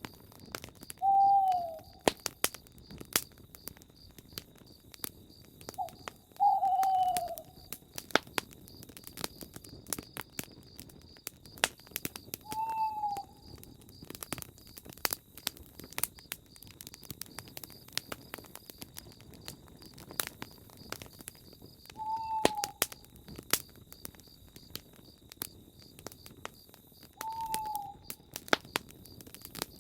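Campfire crackling, with sharp pops scattered throughout, under a steady high-pitched hum. A bird hoots five times, each a short falling call, about a second in, near six seconds, near thirteen, near twenty-two and near twenty-seven seconds.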